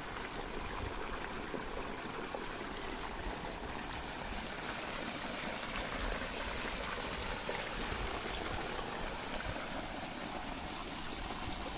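Water running and trickling steadily on a farm, an even rushing noise that holds without break.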